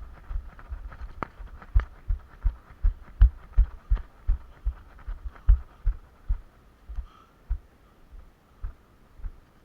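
Regular low thuds, about two to three a second, like a person's steps carried through a body-worn camera; they space out and fade after about six seconds.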